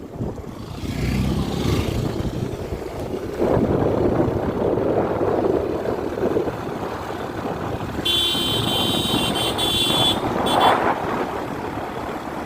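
Motorbike riding up a hill road, its engine and the rush of wind buffeting the microphone. About eight seconds in, a steady high-pitched tone sounds for about two seconds.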